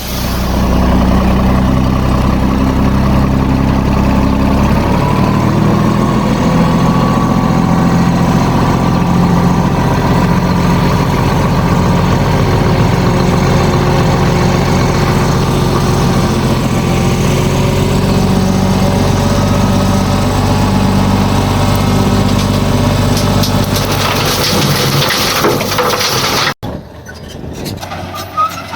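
Heavy earthmoving machine's diesel engine running loud and steady, its note changing about five seconds in; the sound cuts off abruptly near the end.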